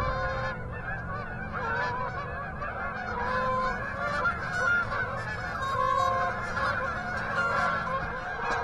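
A flock of Canada geese honking, many overlapping calls at once, as they come in toward the pond.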